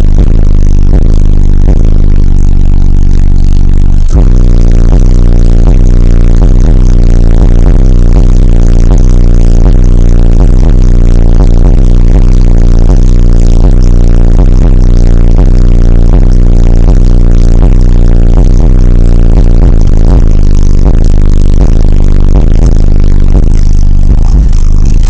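Bass-heavy music played at full level through a truck's fourth-order subwoofer wall, with deep sustained bass notes dominating, and the bass line changes about four seconds in.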